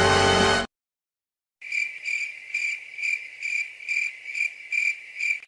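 Music cuts off shortly after the start, followed by about a second of silence. Then crickets chirp, a high pulsing trill about twice a second: the stock 'crickets' sound effect used to mark an awkward silence.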